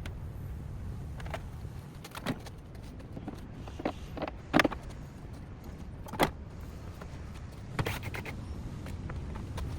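Irregular clicks and knocks from work on a car, over a steady low rumble.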